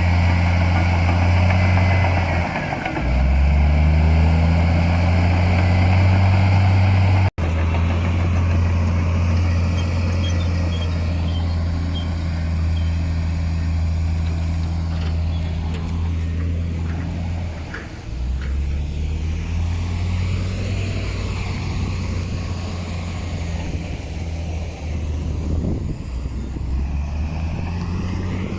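Heavy diesel earthmoving machinery running steadily. Its engine note drops and picks back up about three seconds in, and again about eighteen seconds in. The sound breaks off abruptly and resumes about seven seconds in.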